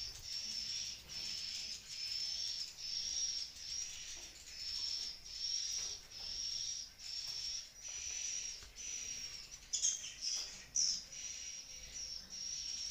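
Swiftlet calls echoing through a swiftlet house: a steady train of high chirps at one even pitch, about two a second, with a few louder, different chirps about ten seconds in.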